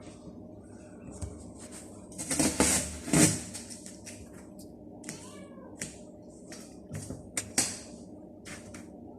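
Hungry stray cats meowing, two loud cries close together and a softer rising-and-falling meow a little later, with short sharp clicks in between.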